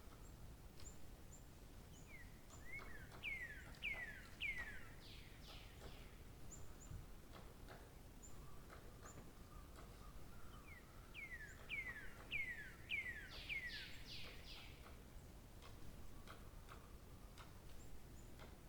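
A songbird singing two phrases, each a quick run of five or six downslurred whistled notes, the first about two seconds in and the second about eleven seconds in. A few faint high chips sound in between.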